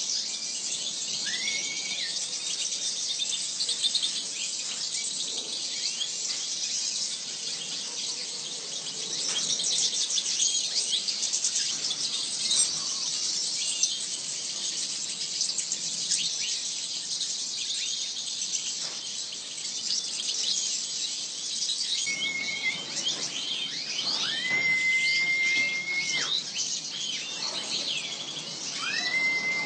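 Many small birds chirping and twittering in a dense, high chatter. Now and then one gives a long whistle that rises and then holds a steady note, several of them in the last third.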